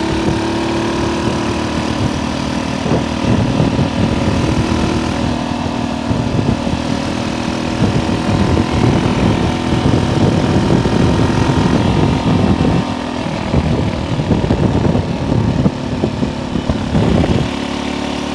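Honda C200 step-through's small single-cylinder four-stroke engine running steadily under way as the bike is ridden, with wind buffeting the microphone.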